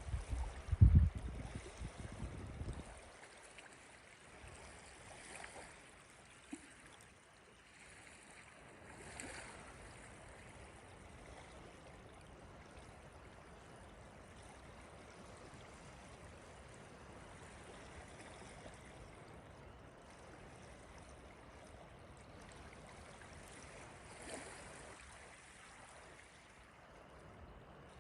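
Small lake waves lapping softly at the shoreline, a steady faint wash with a few slightly louder swells. A brief low rumble comes in the first two or three seconds.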